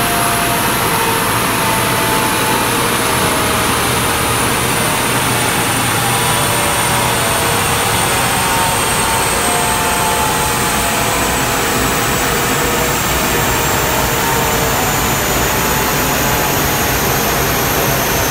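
Ford Fiesta ST with an X57R turbo running on a rolling-road dyno at low revs, off boost after a power run, under a loud steady rush of noise. Thin whines slowly fall in pitch throughout.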